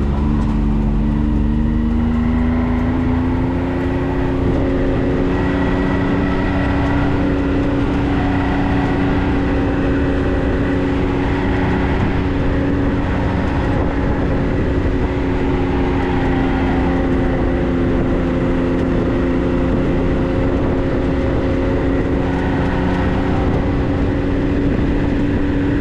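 Vehicle engine running under way, rising in pitch over the first few seconds as it speeds up, then holding a steady drone.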